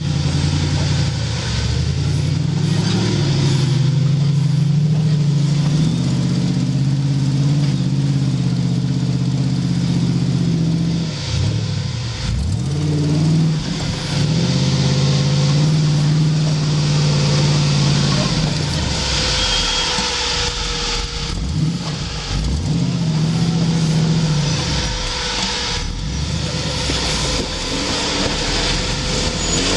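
Off-road vehicle engine revving, held at steady high revs in long stretches, with the throttle dropping off and coming back a few times, and a hiss of wind and rushing air over it.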